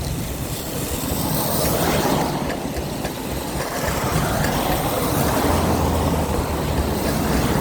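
Electric wheelchair rolling along a wet road in the rain: a steady rushing hiss of wet wheels and rain over a low rumble, with a low steady hum coming in about five seconds in.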